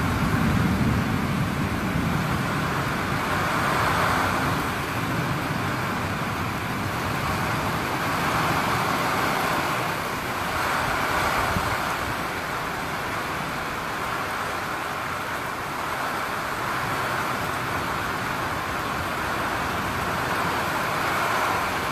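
Heavy thunderstorm rain pouring down as a steady hiss that swells and eases, with wind gusts rumbling more strongly in the first couple of seconds.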